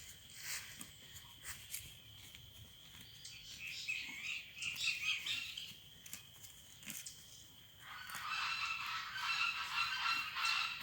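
Birds calling: a patch of chattering calls in the middle, then a dense, continuous run of repeated honking calls from near the end.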